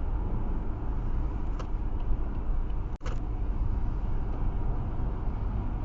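Steady road noise inside a car at motorway speed: a low rumble of tyres, engine and wind. There is a faint click twice, and the sound drops out for an instant about three seconds in.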